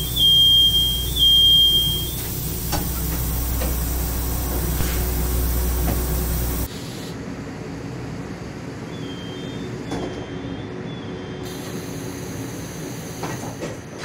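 Taiwan Railway EMU300 Tze-Chiang train's door warning: three short high beeps, followed by the pneumatic plug doors hissing and knocking shut over the hum of the train. A second, quieter round of three beeps and a door closing follows later.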